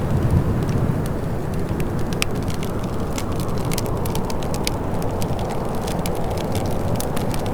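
Wood fire crackling in a fireplace: many sharp, irregular pops and snaps over a steady low rushing.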